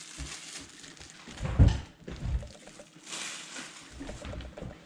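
Laptop box and its packaging being handled: a heavy thump about one and a half seconds in, a softer one just after, then a stretch of rustling.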